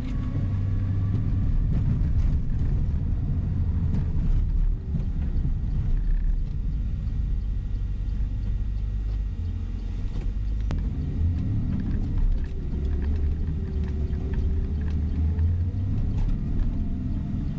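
Tour coach driving, heard from inside the passenger cabin: a steady low rumble of engine and road noise, with a faint engine note rising and falling in the second half.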